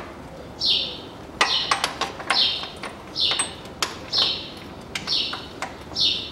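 A bird calling a short, high, falling chirp over and over, about once a second. Between the calls come light metallic clicks and knocks of hand work on the engine's timing-belt parts.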